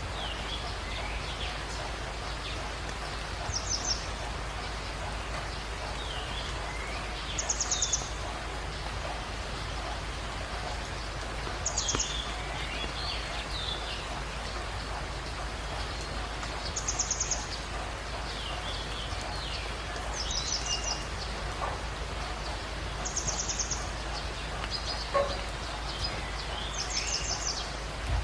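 Jungle dawn ambience: a steady hiss under bird calls, with a short, high, rapidly trilled call repeating about every three to four seconds and softer chirps between.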